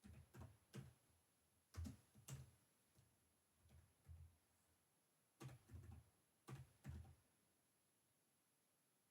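Faint computer keyboard typing: short runs of a few keystrokes, with pauses of about a second between the runs.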